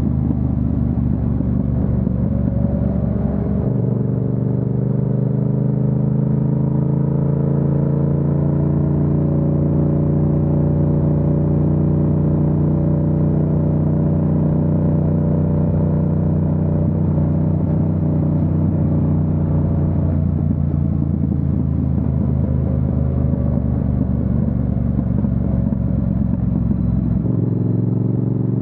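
Yamaha MT-07's parallel-twin engine running steadily under way. The engine note shifts about four seconds in, again about twenty seconds in, and near the end.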